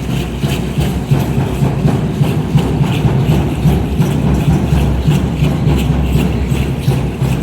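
Aztec dance drumming, with a steady rhythmic beat on large drums and the rattle of dancers' seed-pod ankle rattles (ayoyotes) on each stroke.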